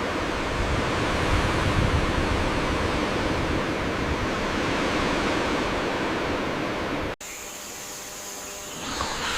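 A steady rushing noise that cuts off abruptly about seven seconds in, giving way to quieter outdoor ambience.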